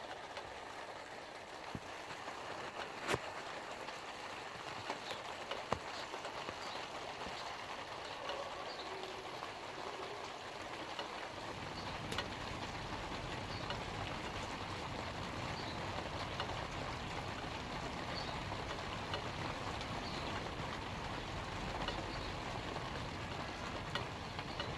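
Light rain falling on leaves: a steady patter with a few louder single drops. A low rumble joins about halfway through.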